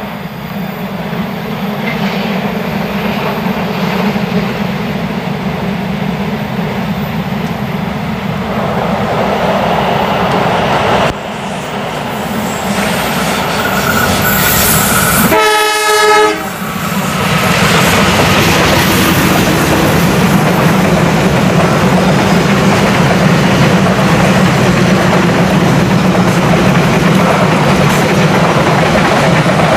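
A diesel locomotive hauling a passenger train comes up, its engine running under the rumble of wheels on the rails. A short horn blast sounds about halfway through, and then the coaches pass with a steady rumble and clatter of wheels on the track.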